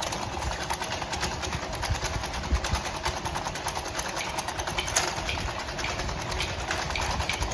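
Conveyor line with a vacuum leak detector running, a rapid, steady mechanical clatter over a low rumble, with a sharper click about five seconds in.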